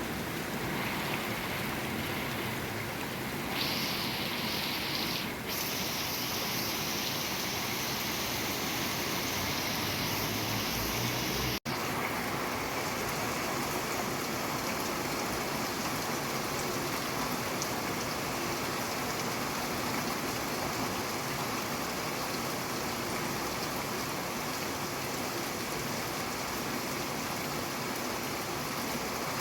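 Steady rain falling, an even hiss. About twelve seconds in it cuts out for an instant and then carries on with a slightly changed tone.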